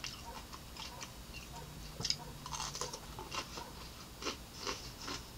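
A person biting into a raw cucumber slice and chewing it with the mouth close to the microphone: a series of irregular crunches.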